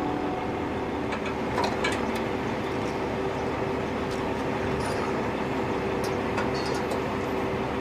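Heavy tow truck's engine running steadily, with a few light clicks and knocks about a second and a half in and again later as the float trailer's gooseneck is hooked up.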